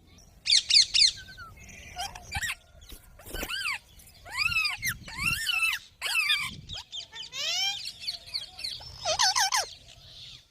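Green parrot calling: a rapid run of three high, shrill screeches about half a second in, then a string of arching squawks and chirps, with a burst of trilled calls near the end.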